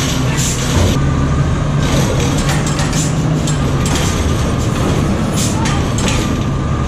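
Recycling truck engine running steadily, with short hissing bursts now and then.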